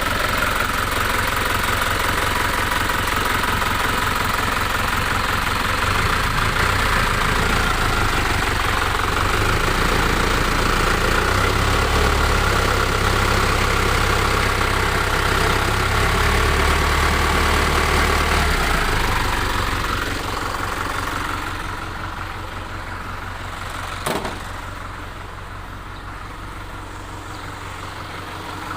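Engine idling with engine-flush additive in its oil, running the additive through before the oil is drained. It runs steadily, then turns quieter about two-thirds of the way in. A single sharp click comes near the end.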